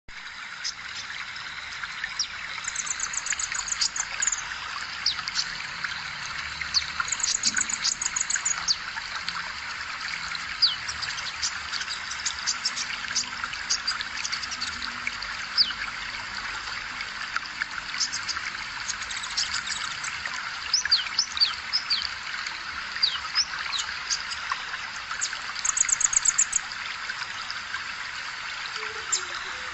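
Small songbirds chirping and whistling in short high calls, with a rapid high trill now and then (near the start, about seven seconds in, and near the end), over a steady trickle of running water.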